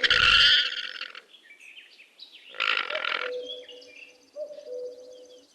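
Llama sounds: a harsh, breathy burst at the start and another about two and a half seconds in, followed by a soft steady hum at one pitch with small upward blips.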